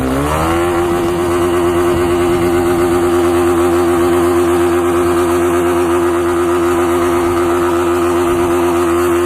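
Motorcycle engine revving up and then held at a steady high rpm, one constant note.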